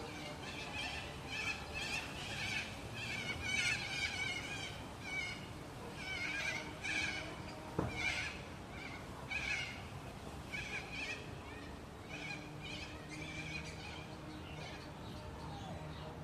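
A bird calling in a rapid series of repeated harsh notes that builds over the first few seconds and tails off after about ten seconds, with a single sharp click about halfway through.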